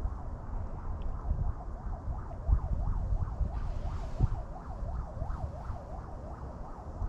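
Wind buffeting the microphone with a steady low rumble, and over it a warbling tone that rises and falls about three times a second, starting about two seconds in.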